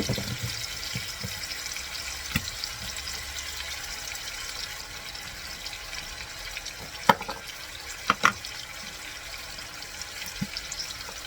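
Chicken breasts frying in a pan with a steady sizzle, with a few sharp knocks of kitchen utensils, the loudest about two-thirds of the way through.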